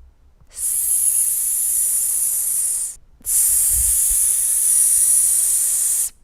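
Two long, steady high hisses of about two and a half seconds each, with a short break between: a spray-can-like hiss used to model the S sound.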